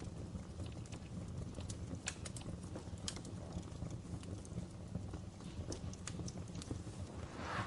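Wood fire crackling, with irregular sharp pops and clicks over a steady low rumble, and a brief louder rush of noise near the end.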